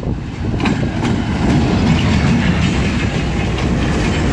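Diesel-electric locomotive running past close by with a heavy engine rumble, followed by passenger coaches rolling by with wheels clattering on the rails. The sound grows louder over about the first second and a half as the locomotive nears, then holds steady.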